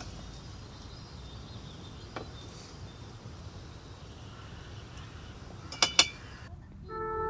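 Outdoor campsite ambience, a steady low background noise with a few faint ticks, broken by two sharp clicks close together about six seconds in. Near the end the ambience drops out and soft, sustained bell-like music begins.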